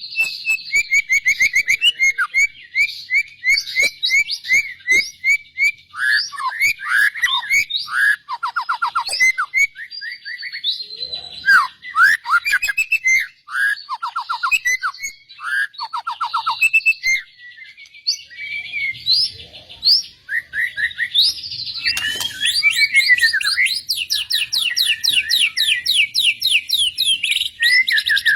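White-rumped shama song: a varied run of whistled glides, fast trills and repeated notes. About two-thirds of the way through it turns into a dense, rapid series of high chirps.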